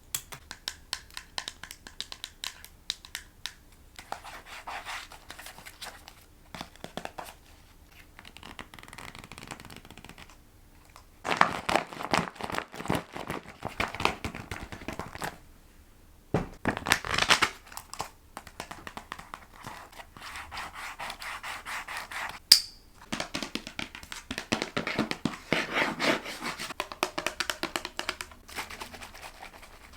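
A quick succession of close-miked ASMR handling triggers, changing every few seconds: crisp taps and clicks, then stretches of rustling and scratching, with one sharp click about two-thirds of the way through.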